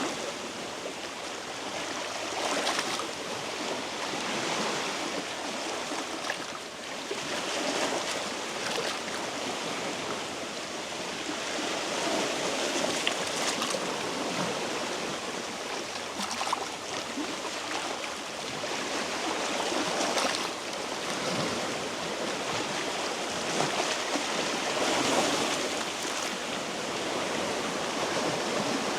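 Small sea waves washing over shoreline rocks: a steady rushing hiss that swells and eases every few seconds.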